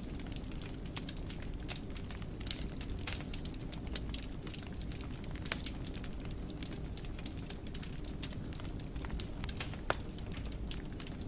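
Wood fire in a fireplace crackling, with frequent irregular small snaps and a few louder pops over a steady low rumble of the flames.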